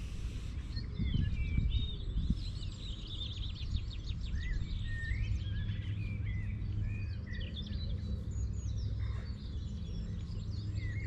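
Songbirds singing, with many quick, varied chirps and warbles, over a steady low rumble; a few low bumps come between one and two and a half seconds in.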